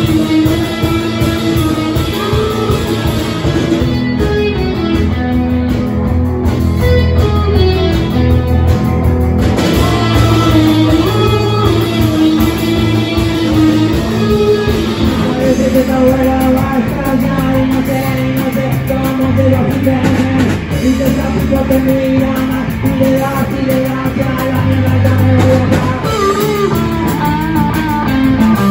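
Rock band playing, led by guitars over bass.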